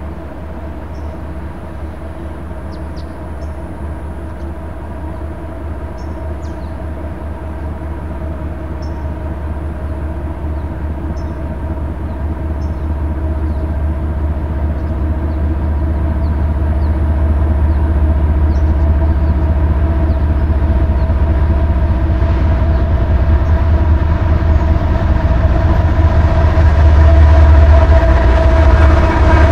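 Diesel-hauled freight train approaching: the locomotives' deep engine rumble and steady drone grow steadily louder, loudest near the end.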